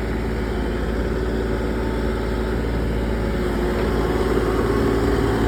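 Bobcat E35 compact excavator's diesel engine running steadily, growing slightly louder about halfway through.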